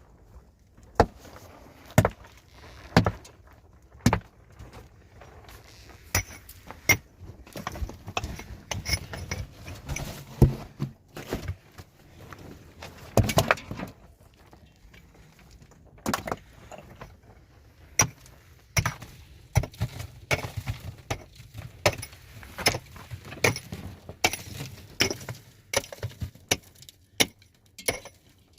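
An irregular run of sharp knocks and clinks of hard objects being handled and set down, some single and some in quick clusters.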